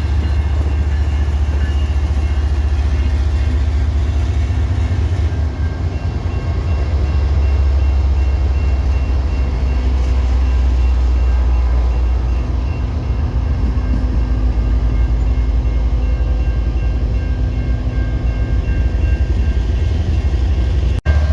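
A train running past with a steady, loud low rumble and a few steady engine tones above it. The sound cuts out briefly near the end.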